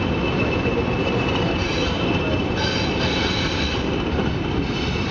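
A train running on the track, with a steady rumble and a high-pitched squeal that comes and goes, loudest around the middle.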